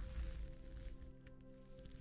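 A sequin sheet being scratched: a soft, noisy scratching with several sharp little clicks, over calm background music with long held tones.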